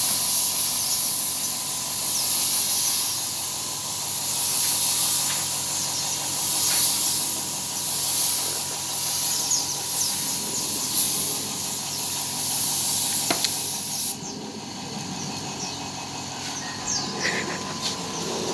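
Compressed-air spray gun hissing as it sprays clear coat, swelling and easing in passes. The hiss stops about three-quarters of the way through. A faint steady high tone runs underneath throughout.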